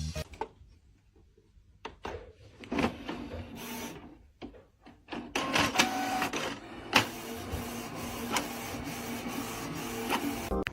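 A small machine whirring and clicking, starting about five seconds in after a few scattered knocks.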